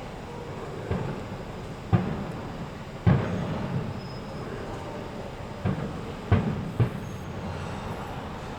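Fireworks exploding: six sharp bangs at uneven intervals, the loudest about two and three seconds in and another pair near six and seven seconds, over a steady low rumble.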